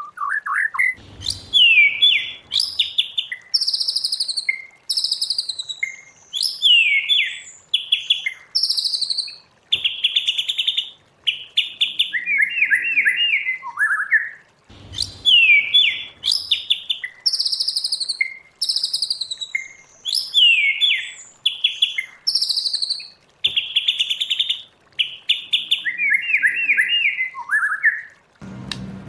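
White-rumped shama singing a varied string of clear whistled notes and sweeping phrases, with a rapid falling trill near the middle and again near the end. The same sequence of phrases plays twice, the second time starting about halfway through.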